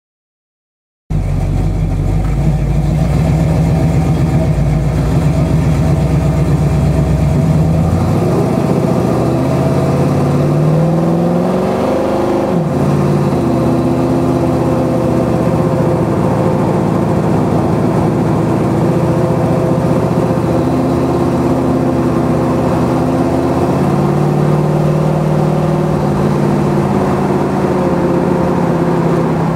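Chevrolet 396 big-block V8 of a 1969 Camaro SS running with a deep, steady note that starts suddenly about a second in. Its pitch climbs for several seconds, falls off sharply, then steadies, with a smaller climb near the end.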